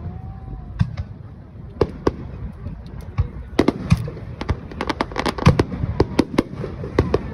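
Fireworks display: many sharp bangs of bursting fireworks in quick, irregular succession over a low rumble. The bangs come thicker after about three and a half seconds.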